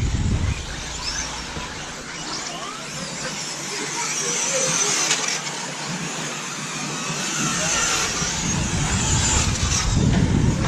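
Several radio-controlled short course trucks racing, their motors whining in overlapping glides that rise and fall as they speed up and slow down around the track. A low rumble joins in near the end.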